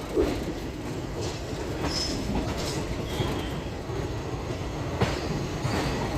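Moving passenger train: a steady rumble of wheels on the track with occasional sharp knocks over rail joints, and brief high wheel squeals about two and three seconds in.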